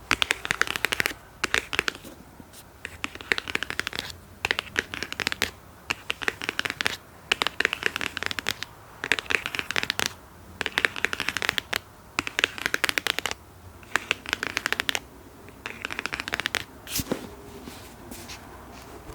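ASMR scratching trigger: bursts of quick, dense scratching strokes on an object, each about a second long with short pauses between, and a single sharp click near the end.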